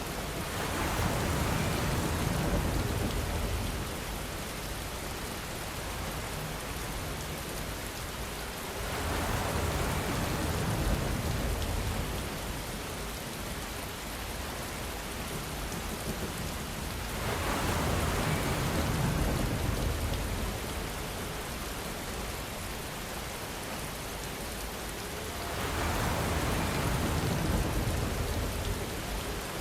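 Steady rainfall, an even hiss of rain on surfaces. Four times, about every eight or nine seconds, it swells louder for three or four seconds with a low rumble underneath.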